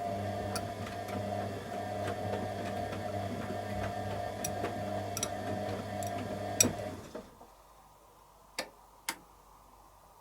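Candy Aquamatic 100F washing machine turning its drum during the heated wash: a steady motor hum with scattered light ticks. The motor cuts out about seven seconds in, followed by two sharp clicks about half a second apart.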